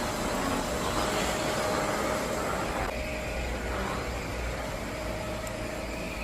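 Steady motor-vehicle noise: a low rumble with an even hiss above it, and no sudden events.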